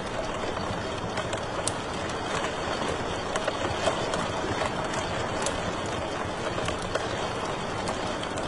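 Fireplace wood fire crackling: a steady hiss of burning with scattered sharp pops and snaps.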